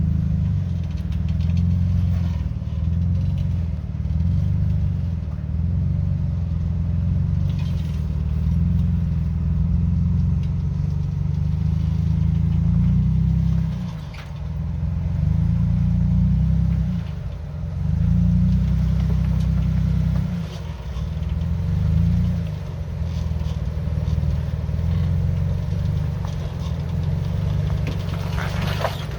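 Off-road Jeep engine running as it crawls over rocks: a low rumble that swells and eases as the throttle is worked, dropping off briefly a few times, with an occasional knock.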